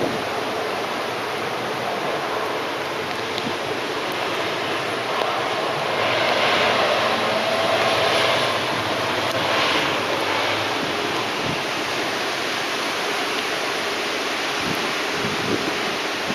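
Steady rushing noise of typhoon wind and rain, with wind buffeting the microphone. It swells louder for a few seconds in the middle.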